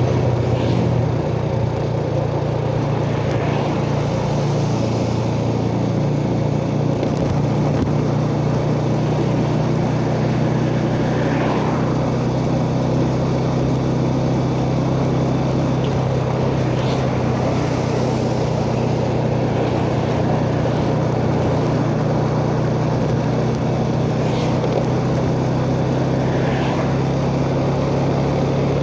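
Yamaha Jupiter Z's single-cylinder four-stroke engine running at a steady pace under way, with wind and road noise around it.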